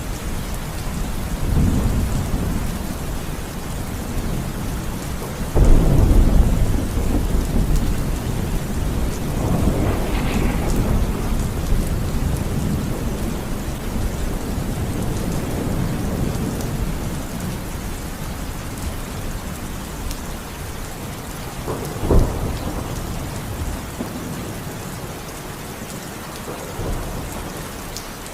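Steady heavy rain with rolling thunder. A loud thunderclap breaks in about six seconds in and rumbles on for several seconds, and a sharper, shorter crack of thunder comes about twenty-two seconds in.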